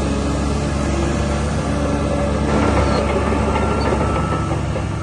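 Diesel engine of a DH17 C2 LGP crawler bulldozer running steadily.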